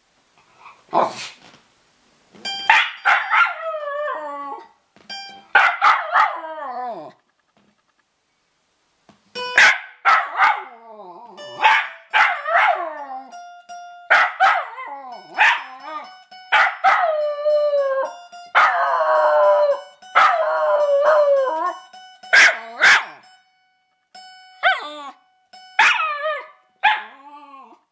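A dog howling along to a strummed guitar: repeated howls that slide down in pitch, mixed in with the guitar's strums and ringing notes. There is a brief pause about eight seconds in.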